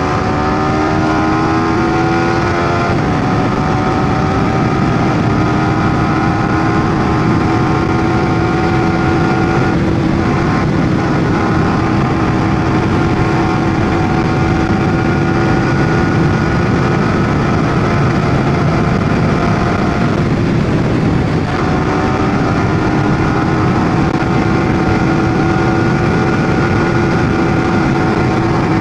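Yamaha R15M's single-cylinder engine running under way, with a steady rushing noise underneath. The engine note climbs for the first few seconds, drops, and then holds steady, breaking off briefly twice, around ten and twenty-one seconds in.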